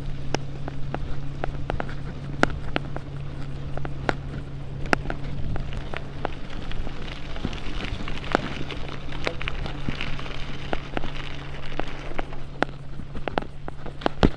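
Bicycle in motion on a park path: steady tyre and wind rumble under a low hum, with frequent sharp clicks and rattles from the bike going over bumps.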